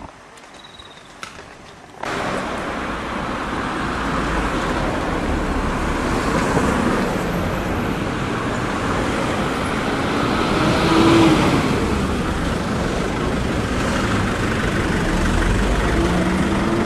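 Steady road traffic noise that starts abruptly after about two seconds of quiet, and swells briefly about eleven seconds in.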